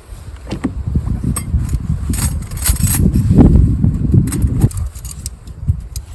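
Handling noise from setting up a car-side tarp: irregular knocks and rustling thumps, loudest in the middle, with a few light metallic clicks and clinks from the fittings.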